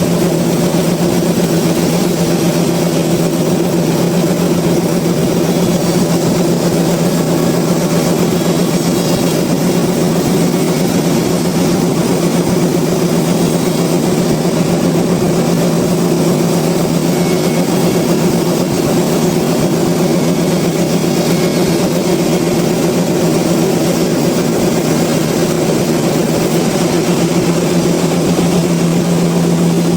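Sawmill machinery running steadily: a constant low hum under an even hiss, unchanged throughout.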